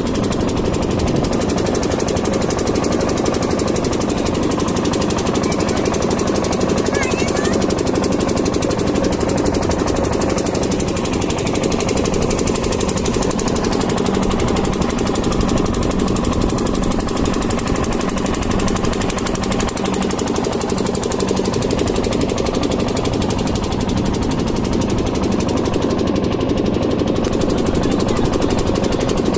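Motorboat engine running steadily with a fast, even knocking beat.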